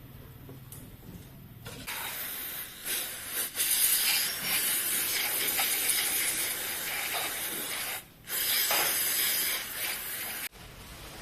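Pressurised spray hissing in two long blasts, the first starting about two seconds in and the second after a brief break about eight seconds in, then cutting off sharply.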